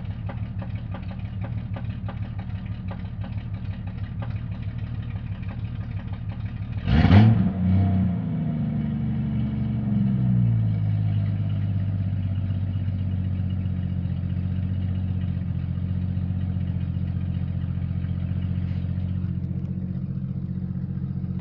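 Jeep Cherokee XJ's 4.0 L inline-six idling with a fast ticking rattle. About seven seconds in it is blipped once, the pitch jumping up and sliding back down over a few seconds before it settles to idle again. The owner traced the noise to the torque converter.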